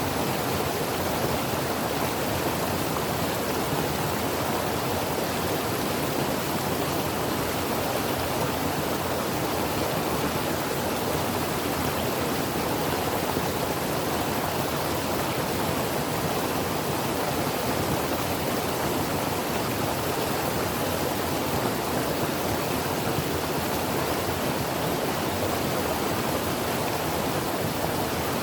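Mountain creek water flowing and rushing steadily over rocks, an even, unbroken wash of sound.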